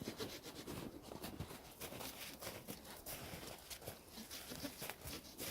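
Hand saw cutting through a dead tree branch: a faint, uneven series of short rasping strokes.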